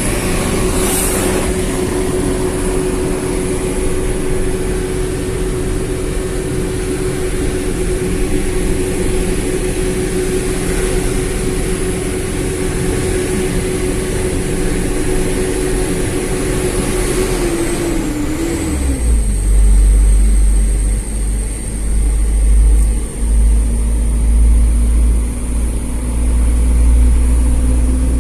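A road vehicle's engine and road noise while driving. About two-thirds of the way through, the engine note wavers and drops, and a heavier, uneven low rumble takes over.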